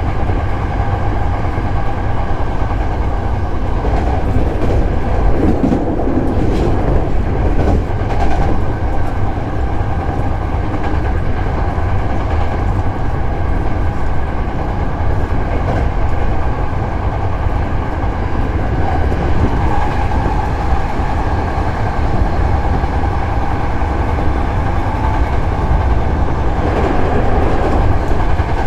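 Hankyu 7000 series electric train running at speed, heard from inside the car: a steady rumble of wheels on rail with a faint steady whine, and a few brief louder rattles.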